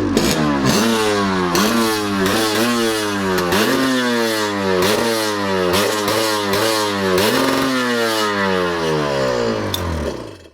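Jet ski engine revving up and down over and over, about once every three-quarters of a second, then winding down near the end.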